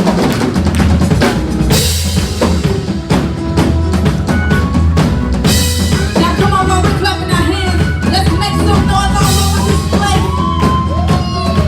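Live church worship band playing an upbeat praise groove, led by a drum kit with kick, snare and rimshot hits over a steady bass line.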